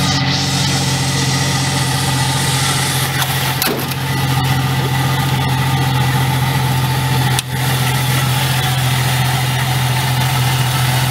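1995 Jeep Cherokee engine idling steadily with a faint high-pitched whine from the alternator, which a mechanic put down to probably worn alternator bearings.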